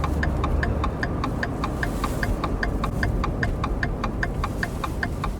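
A car's turn-signal indicator ticking steadily, several even clicks a second, over the low hum of the car.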